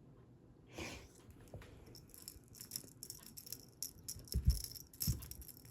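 A cat toy rattling and jingling in quick, irregular shakes as a cat plays with it, with two dull thumps about four and five seconds in.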